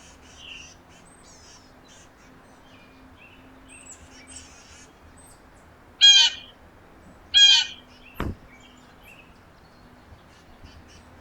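Small backyard birds chirping faintly throughout, with two loud, harsh calls from a corvid about six and seven and a half seconds in. A single sharp knock follows.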